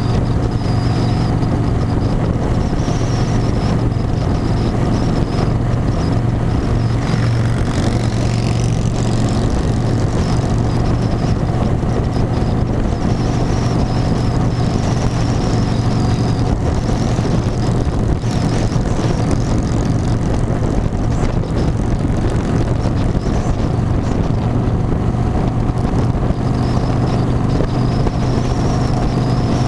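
An engine running steadily under way: a constant low drone with a faint wavering high whine above it.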